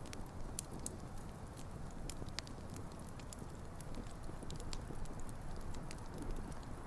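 Wood campfire burning: a steady low rumble of flames with irregular sharp crackles and pops from the burning logs.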